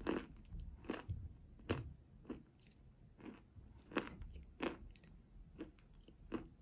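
Close-miked crunching and chewing of a mouthful of chalk with paste, about nine sharp crunches at an uneven pace of roughly one every three-quarters of a second.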